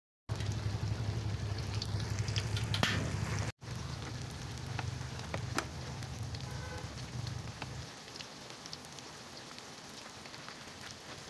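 Slices of jengkol shallow-frying in hot oil in a wok: a steady sizzle with scattered crackles and pops. A low hum runs under it and stops about eight seconds in.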